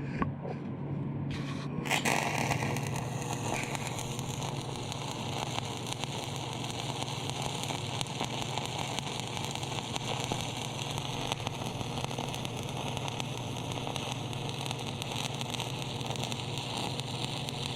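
MIG welder running a continuous bead, a steady crackling sputter over a low hum, starting about two seconds in: pinhole leaks in the steel frame tubing being welded shut.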